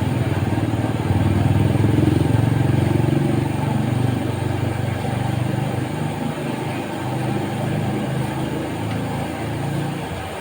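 A small engine running steadily nearby, its low hum wavering slightly, like a motorcycle idling.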